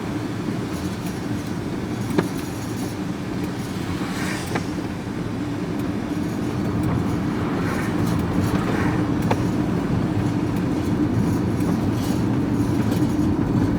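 A loaded scrap van driving, heard from inside the cab: steady road and engine noise with a rattle off the wheels, and a few sharp knocks.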